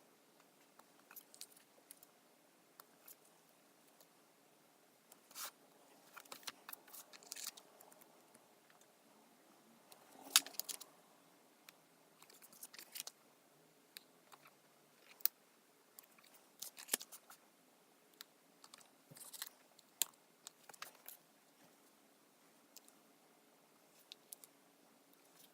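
Paper stickers and planner pages being handled: faint, irregular crinkles, ticks and peeling sounds as stickers are lifted off their backing sheets and pressed onto the pages, with one sharper click about ten seconds in.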